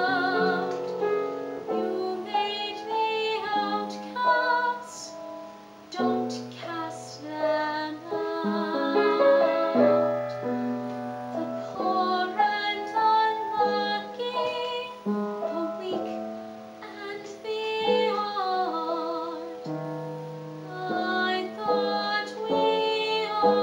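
Teenage girl singing a musical-theatre ballad with piano accompaniment, shaking vibrato on the held notes.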